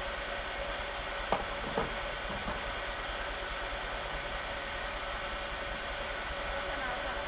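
Chainsaw engine running steadily, with two short knocks about a second and a half in.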